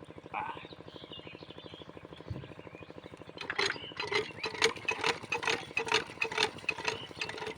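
Small diesel water-pump engine being cranked by hand: a fast, even pulsing underneath, then from about three and a half seconds in, rapid metallic clacking at about four strokes a second as the crank is spun to start it.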